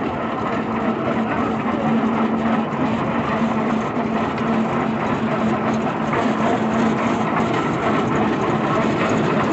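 A heavy antique engine running steadily, with a constant low hum held throughout.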